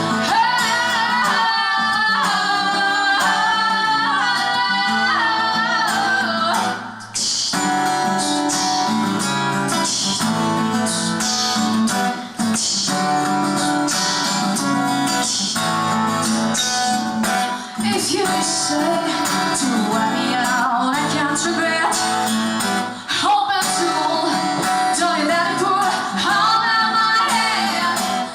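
Live band performing a song: strummed guitar with a female voice singing melodic lines, pausing briefly every few seconds.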